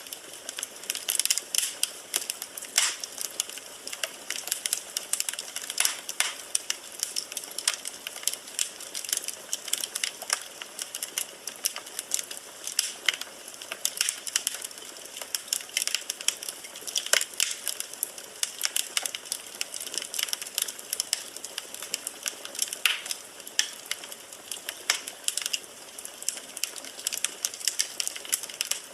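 Firewood burning in a fireplace, crackling and popping continuously with many sharp snaps of varying loudness over a faint hiss.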